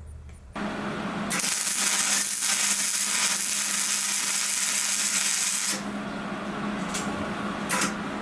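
A power tool running with a steady hum and a loud hissing noise from about a second in to nearly six seconds, then quieter, with a couple of sharp clicks near the end.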